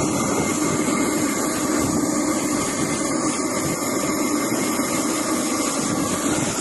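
Steady running noise of an airliner's jet engines, an even roar with a few fixed tones held throughout.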